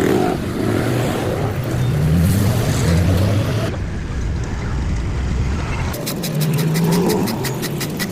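A vehicle engine running, its note shifting between short cuts, with a run of rapid even clicks, about five or six a second, near the end.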